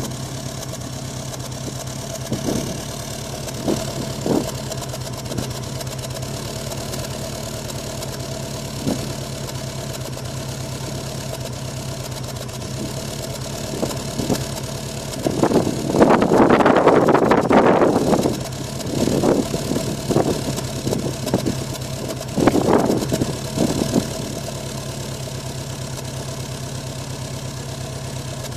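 Subaru flat-four boxer engine idling roughly on a cold start, an uneven idle with irregular stumbles. There is a louder, rougher stretch of about two seconds around the middle.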